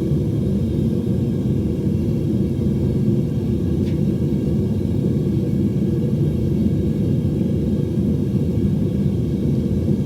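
Home metal-melting furnace burner running with a steady low rumble.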